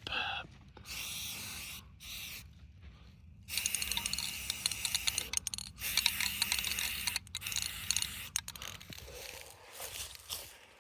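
Aerosol can of high-temperature engine paint spraying in several hissing bursts, with short sprays early and a longer run of spraying from about three and a half to eight seconds in.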